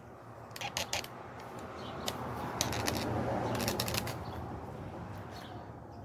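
Floor jack being pulled out from under the car: a few metal clicks and clanks, then a rolling, scraping rattle that swells to a peak and fades away.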